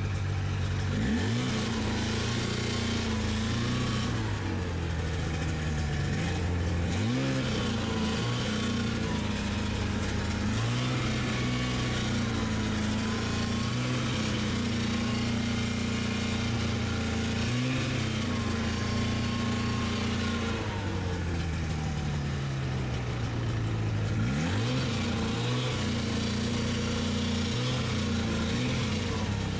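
Snowmobile engine running under way, its pitch rising and falling with the throttle, with quick revs up about a second in, around seven seconds in and again near the end.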